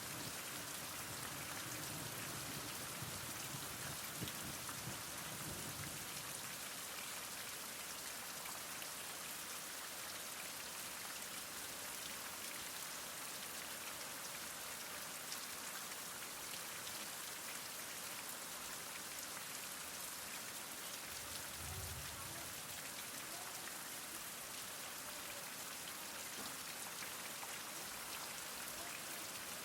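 Heavy rain falling steadily, an even hiss of drops on surfaces, with a few faint low rumbles in the first few seconds and again about three quarters of the way through.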